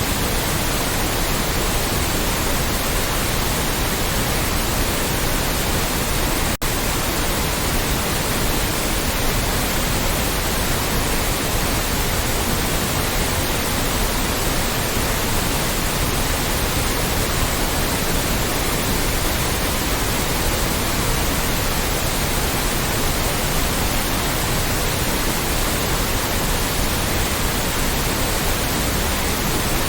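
Steady, loud white noise: an even hiss across all pitches with no tone or rhythm, broken only by a split-second dip about six and a half seconds in.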